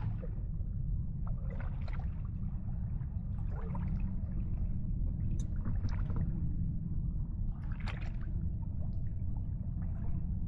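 Water lapping and slapping against a small boat's hull in short splashes every second or two, over a steady low rumble.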